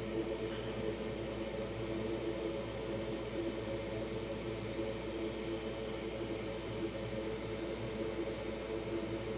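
A small electric fan running steadily on the repair bench: an even whirring hum with several low held tones and a faint hiss.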